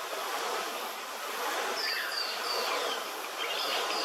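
Radjah shelduck giving a run of short, high whistled calls, about three a second, starting about two seconds in, over a steady background noise.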